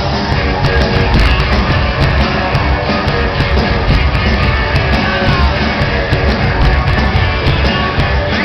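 A rock band playing live and loud in a large concert hall, with full, dense guitars, bass and drums. It is recorded from the crowd, so the sound is heavy and boomy with a dull top end.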